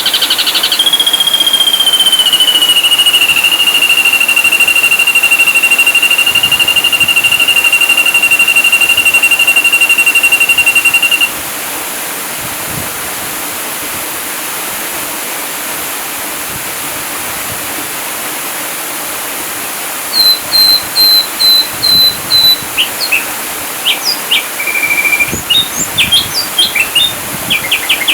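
Ashy drongo calling over a steady rushing hiss. First comes one long whistle that falls slightly and flutters rapidly, lasting about eleven seconds. After a pause, from about twenty seconds in, comes a quick run of short repeated notes, then assorted sharp chirps.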